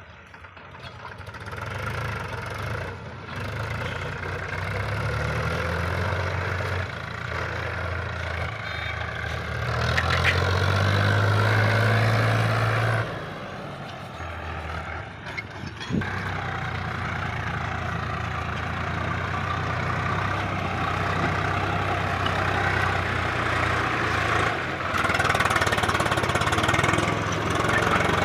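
Tractor diesel engine running steadily, revving up and running louder for about three seconds around the middle before dropping back abruptly. A single sharp knock sounds a few seconds later.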